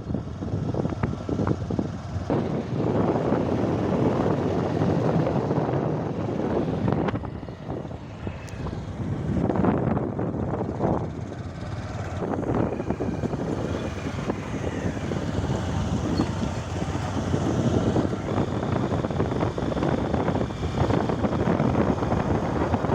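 Motorcycle running as it is ridden, mixed with wind noise on the microphone; the level dips briefly about eight seconds in.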